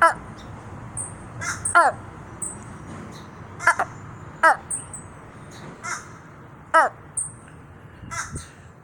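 Common raven calling repeatedly: about six short caws, each dropping in pitch, one to two seconds apart, with faint high chirps between them.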